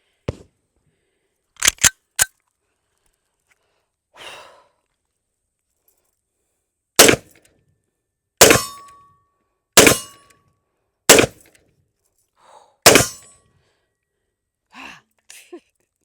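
Magnum Research Desert Eagle pistol in .50 AE fired five times at a slow, steady pace, the shots about one and a half seconds apart, with a brief ringing tone after the second and third. A few metallic handling clicks come before the first shot, and more come after the last.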